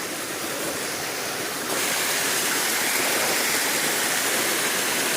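Steady rush of falling water from a small waterfall running low on water. The rush jumps abruptly louder and brighter about a third of the way in.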